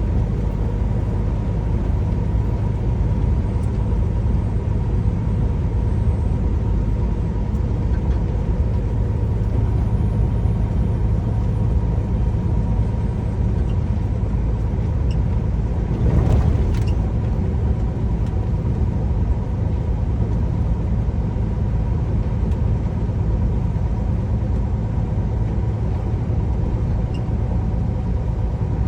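Steady engine and road rumble from inside a truck's cab while driving, with a faint steady whine throughout. About sixteen seconds in there is a brief louder rush of noise.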